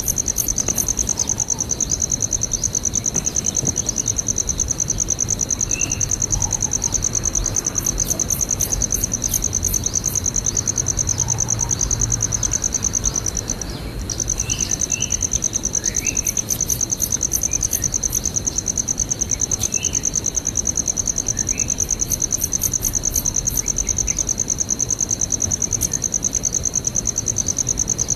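A continuous high-pitched insect trill, steady and unbroken except for a brief break about halfway through, after which it resumes at the same pitch.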